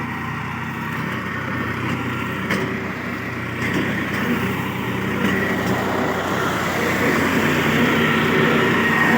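Tractor engine running under load, driving a PTO mulcher whose rotor is shredding grass and brush. It grows louder over the second half.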